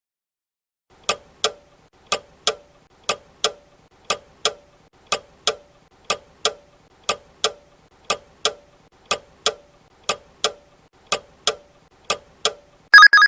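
Clock tick-tock sound effect, a pair of ticks every second for about twelve seconds, counting down the answer time. Near the end a short, loud ringing chime sounds as the time runs out.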